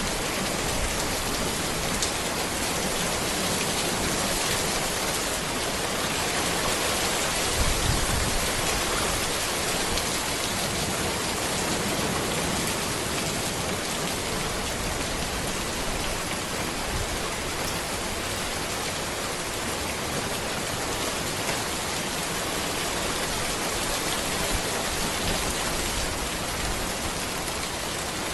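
Steady rain falling on a road and trees, a dense even patter of drops; a brief low rumble about eight seconds in.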